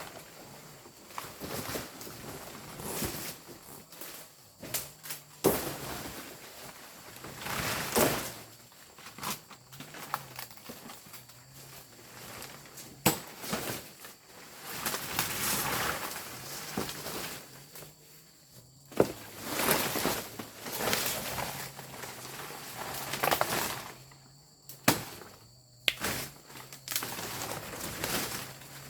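Irregular knocks and thuds with swells of rustling, like footsteps and handling of materials outdoors, with a faint steady high-pitched hum, possibly insects, in the background.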